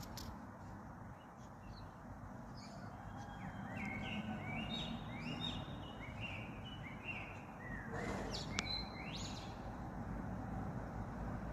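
A bird calling a quick run of short, repeated chirps that starts a few seconds in and stops near the end, over a steady low background rumble.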